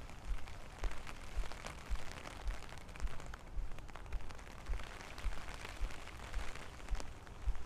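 Steady rain patter with scattered sharp drop ticks, under low thuds about twice a second from the footsteps of someone walking in the rain.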